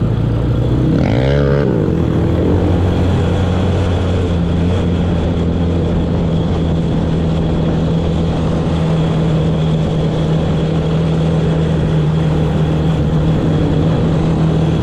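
Off-road vehicle engine running under way at a steady speed, with a brief change in pitch about a second in.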